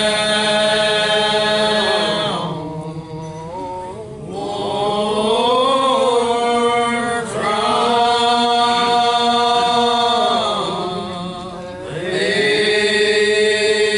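Slow church singing: voices holding long notes in three phrases, with short breaks between them.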